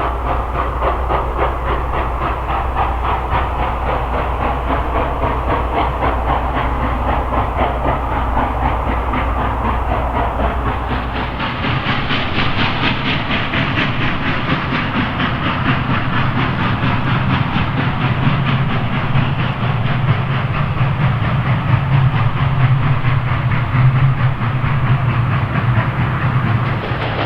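A steam-hauled passenger train rolling along the track: the steady running noise of the railcars, with wheels clacking over the rail joints. About eleven seconds in, the deep rumble gives way to a brighter rattle.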